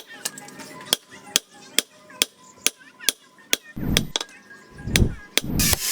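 Hammer striking steel on an anvil at a steady pace, about two blows a second, each with a short metallic ring. From about four seconds in, heavier low thuds come between the strikes, and near the end a loud rough noise starts.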